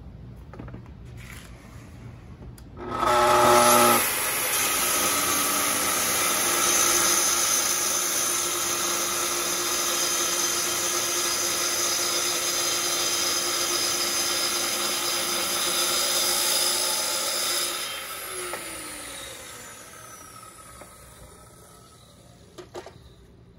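Festool track saw starting up with a brief whine, then running steadily as it cuts through wood for about fourteen seconds, and spinning down with a falling pitch. A single click follows near the end.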